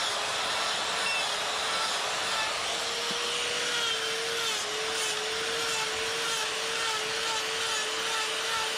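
Die grinder running with a steady high whine, its burr grinding into wood to cut a fur texture.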